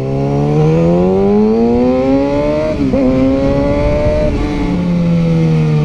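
Motorcycle engine accelerating hard with a rising note, then a brief dip as it shifts up a gear about three seconds in. It pulls again and then eases off, the note falling steadily.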